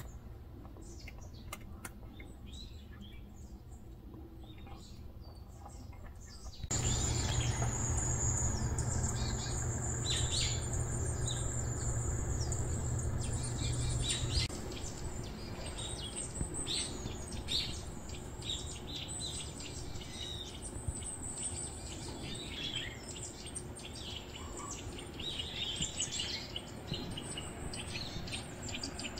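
Small songbirds chirping, many short high calls overlapping throughout. From about a quarter of the way in, a low steady hum runs underneath for several seconds.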